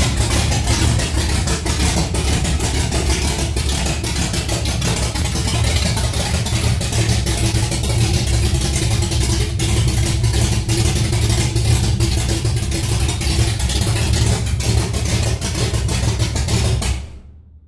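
Holden 308 V8 running very loud straight out of open extractors with no exhaust fitted, shortly after its camshaft break-in. The engine runs steadily, then stops abruptly near the end.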